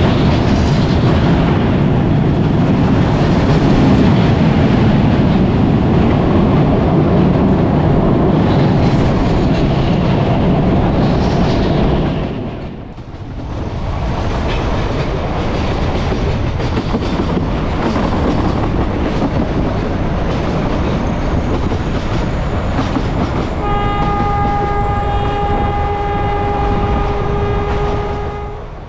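Kangra Valley Railway narrow-gauge train running, heard from the coach: loud, dense wheel and rail noise while crossing a bridge, a brief drop about twelve seconds in, then steadier running noise. Near the end the diesel locomotive's horn sounds one long steady note for about five seconds.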